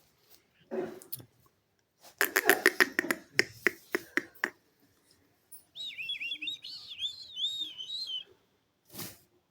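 Parrot calling: a run of rapid, harsh chattering notes about two seconds in, then a warbling whistle that wavers up and down for about two seconds, and a short squawk near the end.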